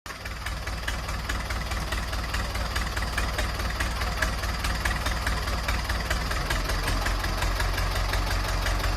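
An engine idling steadily with a rapid, even knocking beat.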